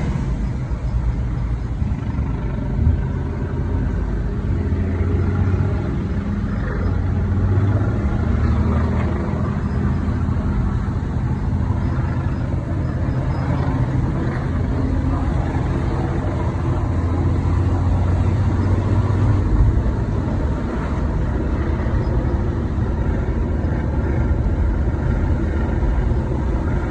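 Mercedes-AMG E53's inline-six running with steady engine and road noise, and faint higher sounds on top. The car is being recorded for an intermittent chirping noise.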